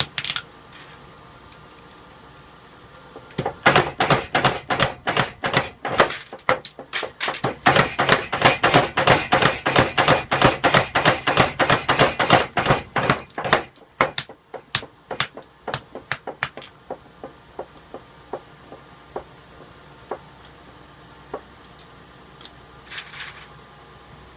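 Forging hammer blows on metal: a fast, steady run of sharp strikes, about three or four a second, lasting some ten seconds, then slower, lighter, spaced blows that die away. A steady background hum runs underneath.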